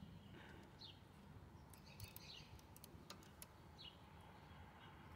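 Near silence: faint bird chirps, a few short falling notes, with a handful of light clicks in the middle from hand work with pliers on the lawnmower's carburetor linkage.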